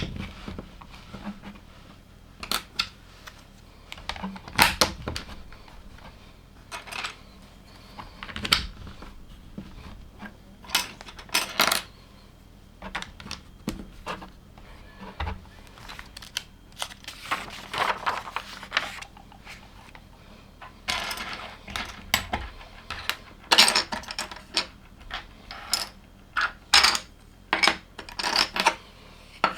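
Small plastic LEGO pieces clattering and clicking as they are picked through and pressed together: irregular light clicks, coming thicker in the second half.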